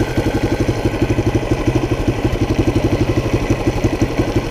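1976 Honda XL175's single-cylinder four-stroke engine idling steadily with the air cleaner cover off, a rapid even beat of about ten pulses a second.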